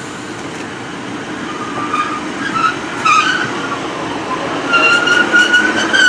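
Diesel multiple unit pulling into the platform and braking, its rumble joined by a high squeal that becomes a strong steady whine and grows louder in the last second or two.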